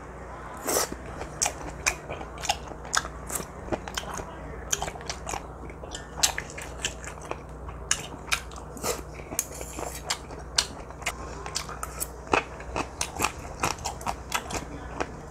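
Close-miked chewing of a mouthful of stir-fried squid and onion: irregular wet clicks and soft crunches, a few each second.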